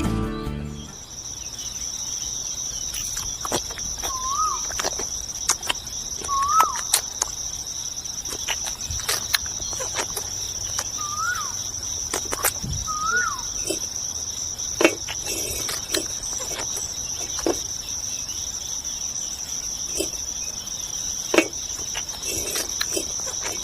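Insects trilling steadily and high-pitched, with a bird giving four short rising-and-falling chirps in the first half. Scattered sharp clicks and taps come and go throughout.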